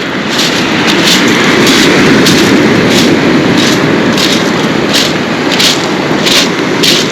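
Sea surf on a pebble beach: a steady, loud wash of waves, with regular crunching steps on the pebbles about every two-thirds of a second.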